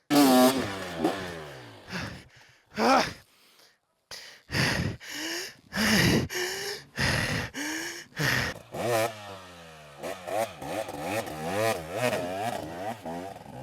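Two-stroke dirt bike engine revved in short, sharp bursts with brief pauses, then running on with revs rising and falling as it is worked on a steep hill climb.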